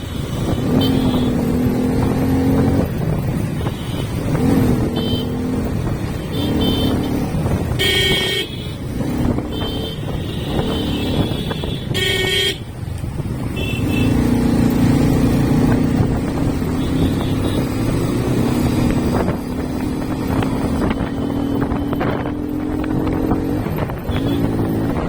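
Motorcycle engine running on the move, its pitch rising and falling as the rider speeds up and eases off, with several short vehicle-horn toots, the loudest two about eight and twelve seconds in.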